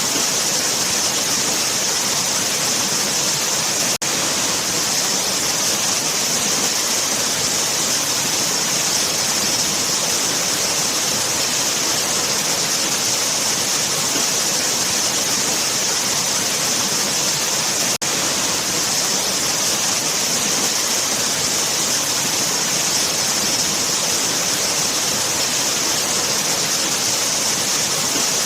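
Waterfall running: a steady, hissing rush of falling water, briefly dropping out for an instant twice.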